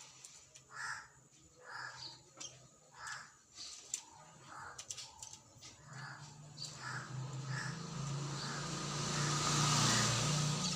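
A bird repeating short harsh calls, about one a second. In the second half a low hum with a hiss builds up, loudest near the end.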